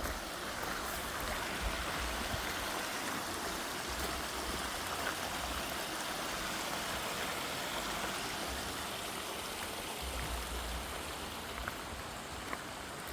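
Stream water running steadily, an even rushing hiss with no changes in pace, with a few low rumbles on the microphone.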